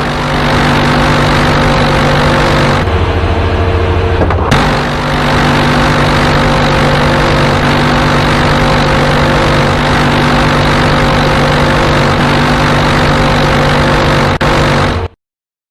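Loud, steady engine roar with a constant low hum. The sound changes briefly about three seconds in, then resumes, and cuts off suddenly near the end.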